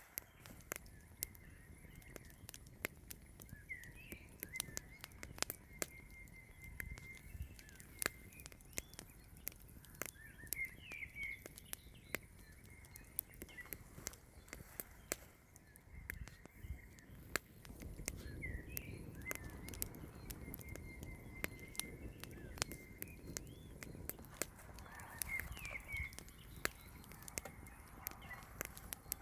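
Campfire crackling with irregular sharp pops, while a small bird chirps in short calls about four times.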